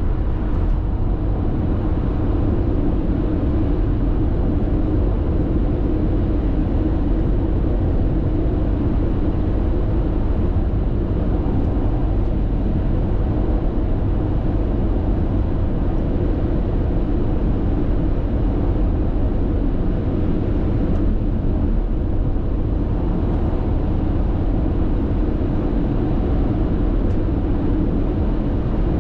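Steady road and tyre noise of a car cruising at constant expressway speed, heard from inside the cabin: an even low rumble with no changes.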